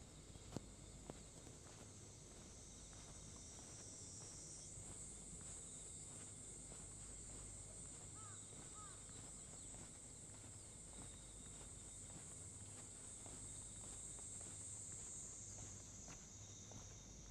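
A steady high-pitched chorus of crickets, its pitch stepping up about five seconds in and dropping near the end. Faint footsteps and two sharp ticks near the start run beneath it.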